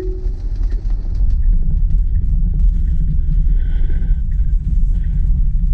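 Road and tyre rumble inside a Tesla's cabin on a rain-soaked road, getting louder about a second in.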